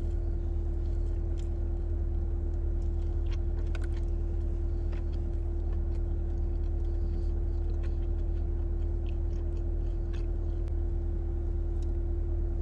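Biting and chewing into a crunchy Hot Cheetos-coated Korean corn dog, with a few faint crunches scattered through. A steady low hum, louder than the chewing, runs underneath.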